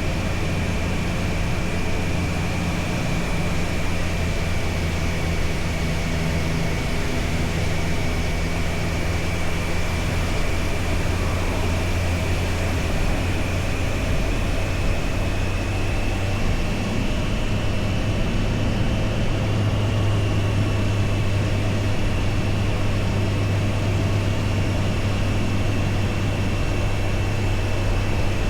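Triumph Tiger Sport 660's three-cylinder engine running steadily at a cruise under riding wind and road noise. Its pitch shifts slightly about halfway through.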